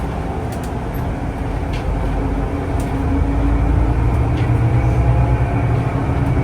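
Steady rumble of a public-transport vehicle under way, heard from on board. It gets louder about four seconds in, with a faint humming tone and a few light clicks.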